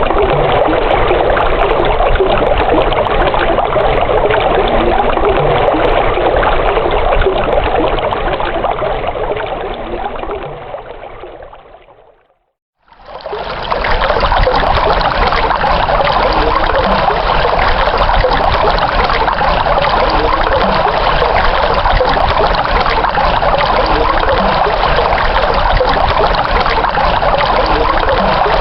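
Running stream water trickling and splashing steadily. A little under halfway through it fades out to a moment of silence, then running water starts up again abruptly and carries on steadily.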